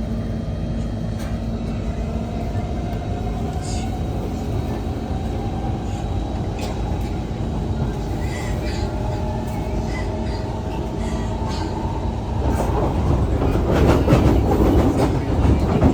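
SMRT Kawasaki–Kinki Sharyo C151 metro train running, heard inside the car: a steady rumble with a faint motor whine slowly rising in pitch. From about twelve seconds in it turns louder, with rattling and clatter.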